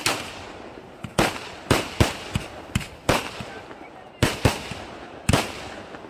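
Fireworks bursting overhead: about ten sharp bangs in an irregular, rapid series, some in quick pairs, each trailing off before the next.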